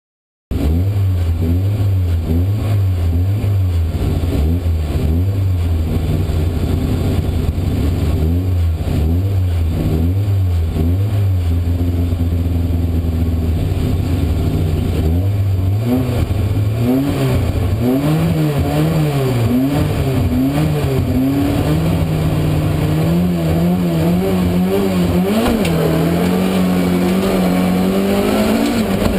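Volvo 200-series rally car's engine heard from inside the cabin, cutting in abruptly and then revving hard, its pitch repeatedly climbing and dropping with throttle and gear changes, then holding higher and rising steadily near the end.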